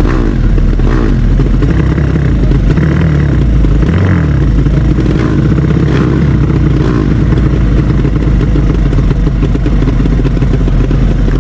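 Modified drag-racing motorcycle engines running loud, several engine notes overlapping with no let-up.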